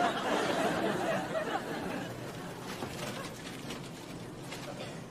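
Studio audience laughter and chatter dying away over the first two seconds, followed by a run of faint, quick clicks, like a ratchet or mechanism.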